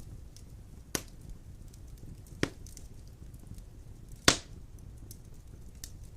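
Large wood logs burning in a stone fireplace: a low steady rumble of the fire with faint crackling, and three sharp pops from the logs, about one, two and a half, and just over four seconds in, the last the loudest.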